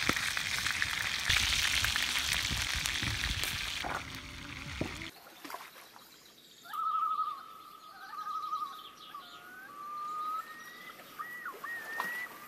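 Chicken pieces sizzling in two cast-iron skillets for about five seconds, then the sizzle cuts off suddenly. From about seven seconds in a bird calls, starting with a wavering trill and going on in long gliding notes.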